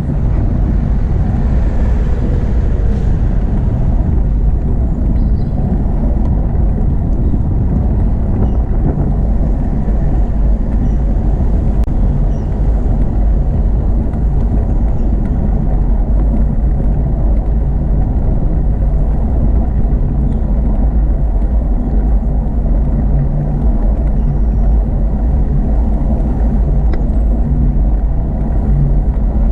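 Steady low rumble of wind buffeting a camera microphone on a moving bicycle, mixed with the continuous noise of motorway traffic.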